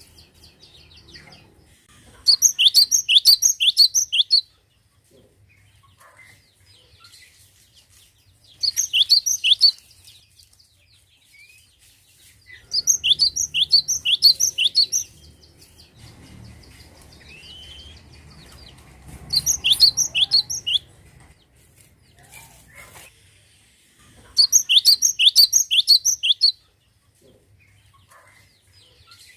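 Cinereous tit (gelatik batu) singing: short phrases of rapid, sharp, repeated notes, each lasting a second or two, come about every five seconds.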